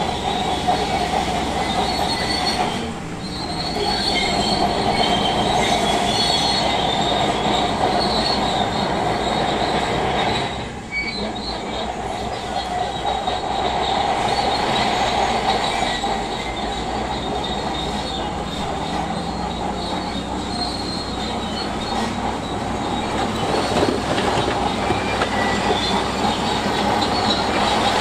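Crawler bulldozer running, its steel tracks squealing and clanking steadily, with brief dips in level about three and ten seconds in.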